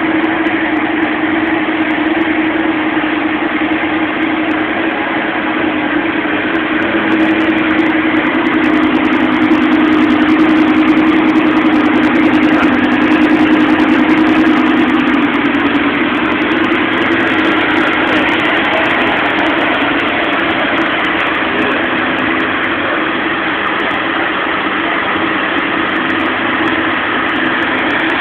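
Lamborghini Gallardo's V10 engine idling steadily, swelling slightly louder partway through.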